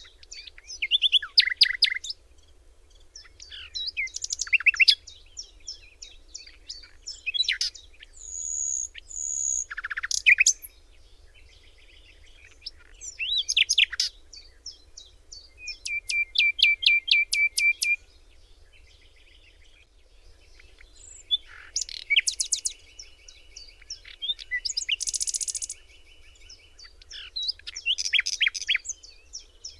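Songbirds singing in phrases of quick chirps and whistles separated by short pauses, including a fast even trill and a longer, buzzier trill in the second half.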